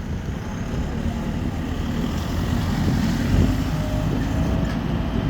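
A heavy motor vehicle or machine running with a low rumble that builds a little, and a steady whine that comes in near the end.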